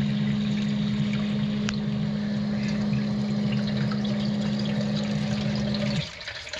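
Sump pump running with a steady hum over the rush of water, then shutting off about six seconds in. It is cycling on every 15 to 30 seconds because heavy rain is flooding the pit with groundwater.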